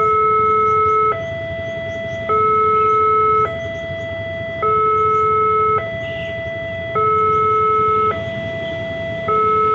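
Railway level-crossing warning alarm sounding its two-tone signal: a louder lower tone and a softer higher tone alternate, each held for about a second, repeating evenly. This signals that the barrier is closed and a train is approaching.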